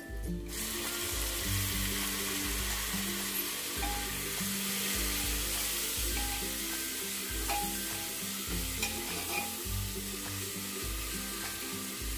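Chopped tomatoes sizzling in hot oil with fried onions in an aluminium pressure cooker, setting in about half a second in as they hit the oil, while a steel slotted spatula stirs them.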